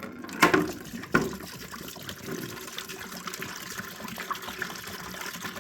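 Engine coolant draining from the Suzuki GT750's cooling system and running steadily into a bucket, a continuous trickling pour. Two short knocks come about half a second and a second in.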